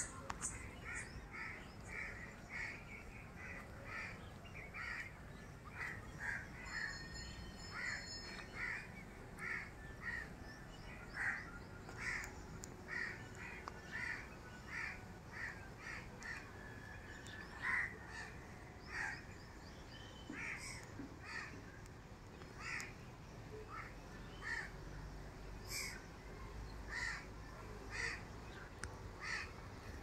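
Birds calling: short notes repeated about once or twice a second all through, with a few louder calls. A second, higher-pitched bird chirps briefly a few seconds in.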